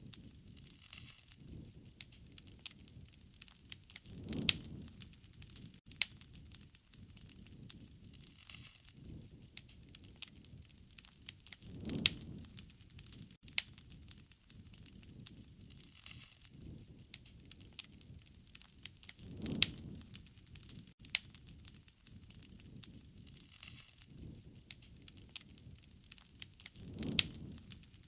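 Wood fire crackling and popping with sharp irregular snaps, under a low rush that swells and fades four times, about every seven and a half seconds.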